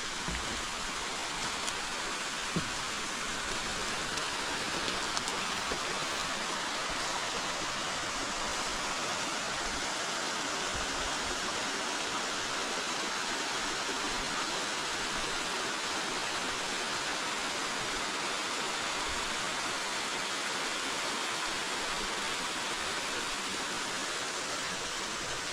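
River water flowing steadily, an even rushing sound with no change in level, with a few faint ticks in the first few seconds.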